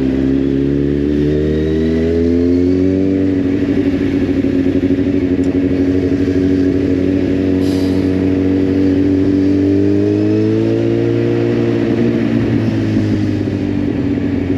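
Kawasaki Z800's inline-four engine running at low, steady revs on a slowly ridden motorcycle, with gentle rises in engine speed about two seconds in and again around ten to eleven seconds.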